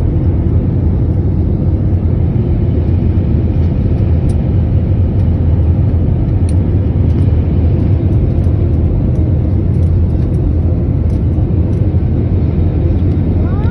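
Steady, loud low rumble heard from inside a moving vehicle, unchanging throughout.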